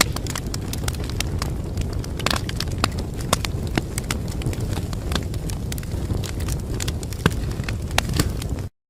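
Wood fire crackling in a fireplace: many sharp, irregular pops and snaps over a steady low rumble of flames. The sound cuts out completely for a moment just before the end.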